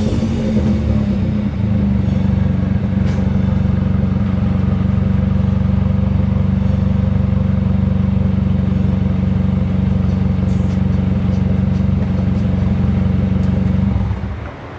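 Dodge Neon SRT-4's turbocharged four-cylinder engine: the pitch falls off a rev in the first couple of seconds, then the engine runs steadily at a constant pitch. The sound drops away sharply near the end.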